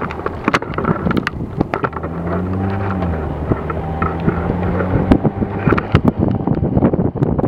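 Car engine pulling the vehicle forward, its pitch rising about two seconds in and then holding steady, with wind noise and frequent sharp clicks and knocks over it.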